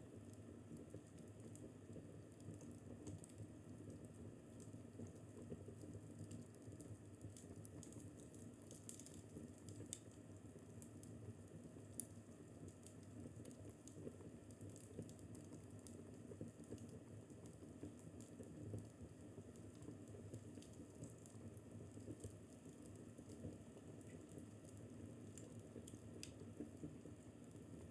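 Wood fire in a fireplace crackling faintly, with many small scattered pops over a steady low rumble.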